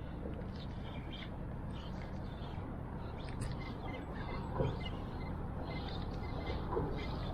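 Steady wind and water noise on an open-water kayak, with faint short high chirps and ticks scattered through it.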